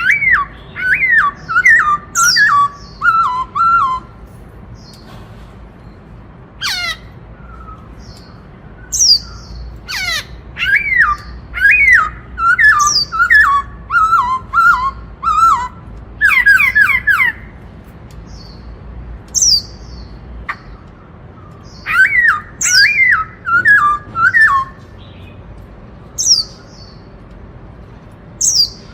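Black-throated laughingthrush singing its 'bắt cô trói cột' song: loud phrases of several whistled notes stepping downward, repeated in three runs, with short high rising squeaks scattered between them.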